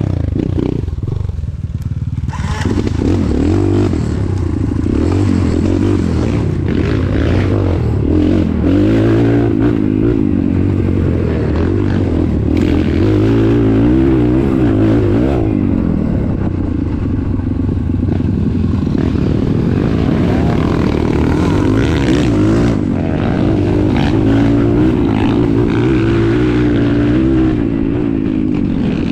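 A vehicle engine running under load while driving, its revs rising and falling unevenly the whole time, with some clatter and scraping over it.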